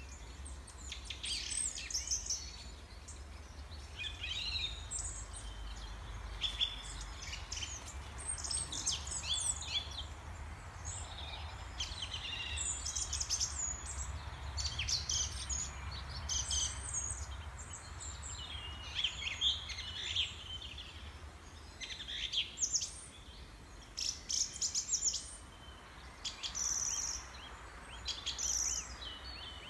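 Songbirds chirping and trilling in a busy chorus of many short, high calls, over a low steady rumble.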